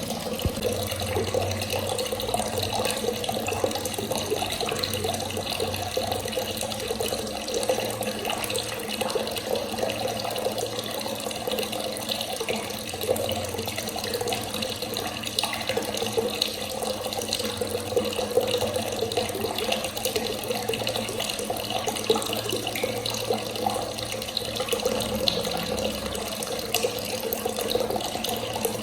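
Water running from a tap in a steady stream.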